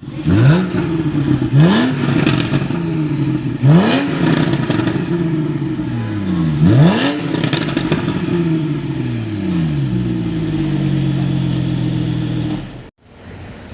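Sports car engine revved in repeated sharp throttle blips, about four, each rising quickly in pitch. The revs then fall away and the engine settles to a steady drone, which cuts off suddenly near the end.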